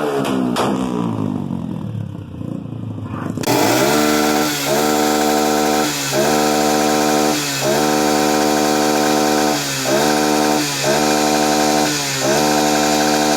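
Small motorcycle engine revving: the revs first fall away. Then a motorcycle engine is held at high revs against the rev limiter, with the pitch steady and briefly dropping every second or two as it hits the cut-off.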